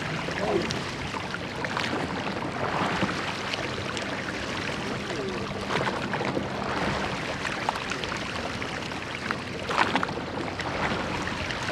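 Steady rush of water and wind aboard an open rowing boat on a river, with a few irregular splashes or knocks and faint distant voices.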